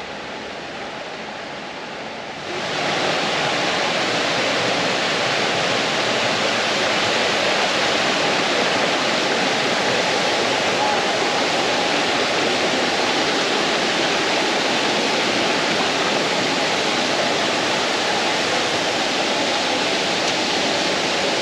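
Curtis Falls waterfall: a steady rush of falling water that jumps sharply louder about two and a half seconds in, then holds even.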